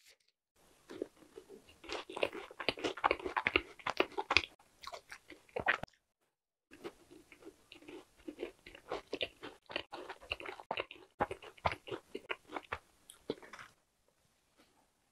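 Close-miked chewing of a macaron: its crisp shell crunching and its chewy filling squishing, in irregular mouthfuls. The chewing breaks off briefly about six seconds in and stops a second or so before the end.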